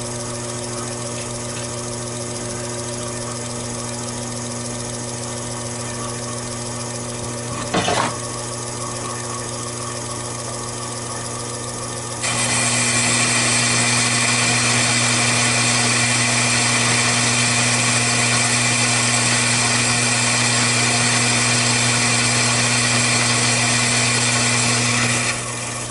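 Taig lathe running with a steady motor hum. About 8 seconds in there is a brief click. About 12 seconds in a louder steady hiss sets in as the cutting tool turns down the outer diameter of the workpiece, and it stops shortly before the end.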